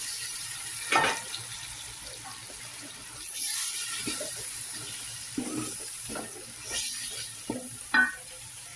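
Wooden spoon stirring tomato paste into sizzling, oil-fried onion masala in a metal pot. Steady frying sizzle throughout, with several short scrapes and knocks of the spoon against the pot; the loudest come about a second in and near the end.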